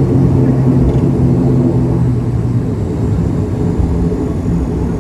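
ATR 72 turboprop engines and propellers running at low power on the ground after landing, heard inside the passenger cabin: a steady low drone with a hum whose strongest part fades about halfway through.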